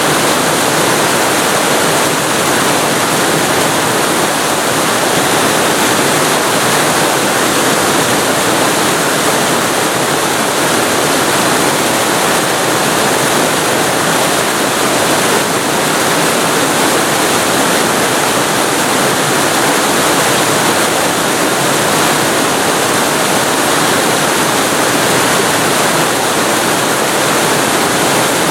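Waterfall recorded close up: a loud, steady rush of falling water, even and unbroken.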